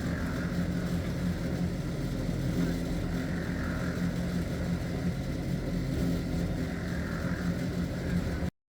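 An engine running steadily at an even speed, then cutting off suddenly near the end.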